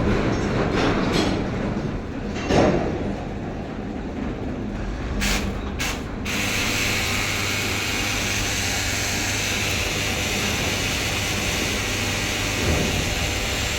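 Diesel engine of a JCB 3DX Plus backhoe loader running steadily while it works, with a metallic clank about two and a half seconds in and a few knocks around the middle.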